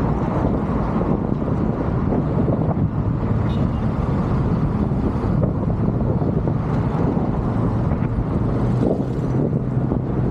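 Steady wind noise buffeting the microphone over a low, even rumble, with a faint steady hum coming in about halfway through.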